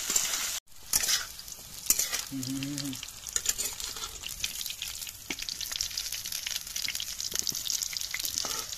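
Cauliflower florets sizzling in hot oil in a metal kadai, with a flat metal spatula scraping and tapping against the pan as they are stirred and lifted out.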